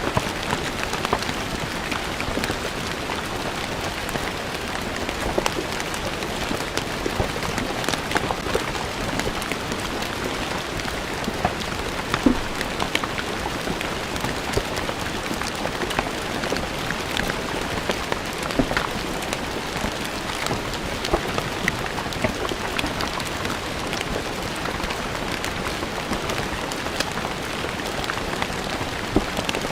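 Steady rain falling on stone paving, a dense hiss with many distinct drops ticking as they hit the stone.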